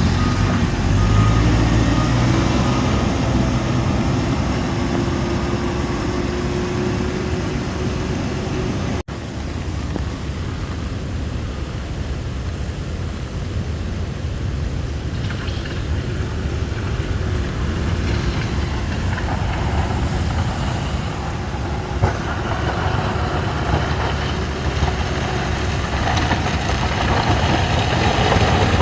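Steady low rumble of a motor vehicle's engine with road and wind noise. The sound drops out for an instant about nine seconds in.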